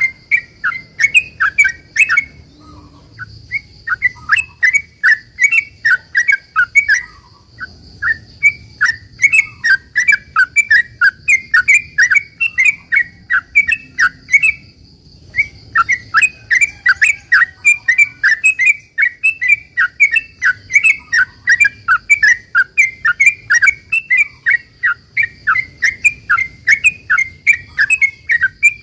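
Yellow-vented bulbul (trucukan) singing a long, fast run of bubbling, slurred chirps, about four to five notes a second, broken by a few short pauses. A faint steady high whine runs underneath.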